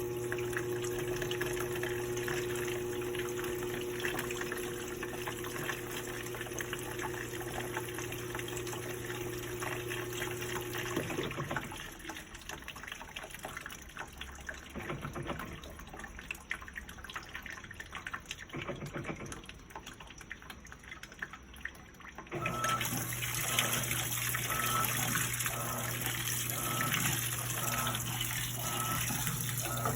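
Electrolux LPE16 washing machine filling with water: water runs in under a steady electrical hum, which stops about eleven seconds in, leaving quieter sloshing, and comes back about twenty-two seconds in.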